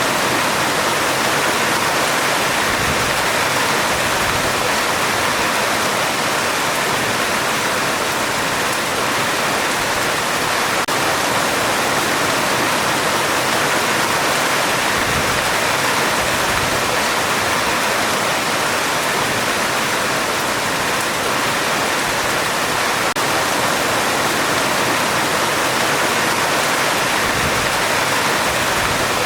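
Heavy rain falling steadily on a metal roof: a dense, even hiss of drumming drops with no break.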